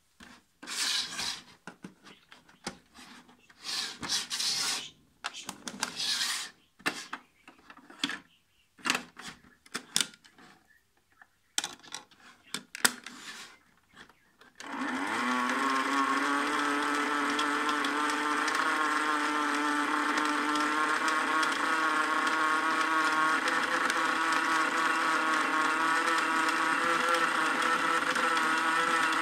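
Irregular rubbing and clicking handling noises, then about halfway through a battery-powered toy washing machine's small electric motor starts. It spins up with a brief rise in pitch and then runs with a steady buzzing whine.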